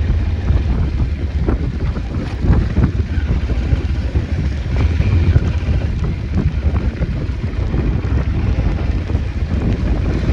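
Wind buffeting the microphone over the steady low rumble of a Cyclone RX401 motorcycle being ridden at speed.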